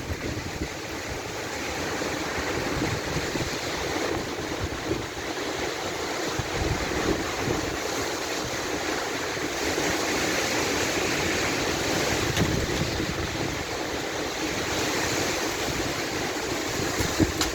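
Strong wind storm blowing steadily, with gusts swelling and easing and wind buffeting the microphone in a low rumble.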